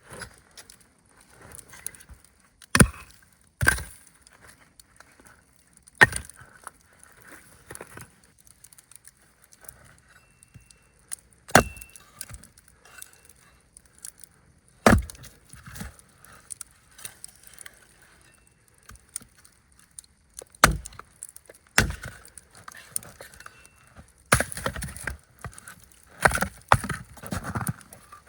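Sharp cracks and knocks of dry wood, about seven, spaced a few seconds apart, then a busier run of knocking and rustling in the last few seconds.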